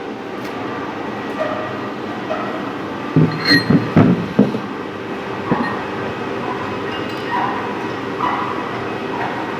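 CNC lathe running steadily during a threading job, with a quick cluster of about five loud short sounds around three to four and a half seconds in.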